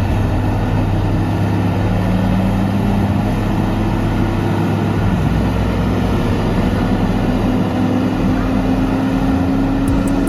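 Heavy machine's engine running steadily under load, with a tone that slowly rises in pitch.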